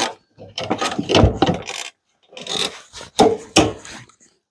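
Cedar log being handled and secured on a manual sawmill's steel bed: irregular knocks and scraping of wood against metal, with two sharp clacks about three seconds in.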